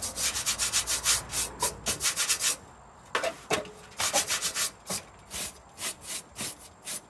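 Hand scrubbing of a kerosene heater's rusty sheet-metal casing, back-and-forth strokes about four a second. After a brief pause near the middle, the strokes resume slower and softer.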